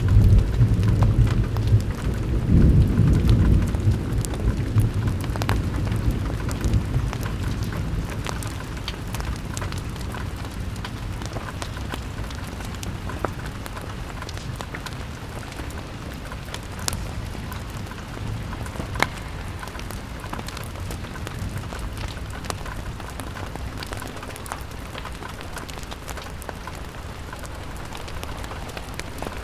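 Steady rain pattering on a window, with scattered sharp drops. A deep rumble of thunder breaks in at the start, is loudest over the first few seconds, then rolls away over several more.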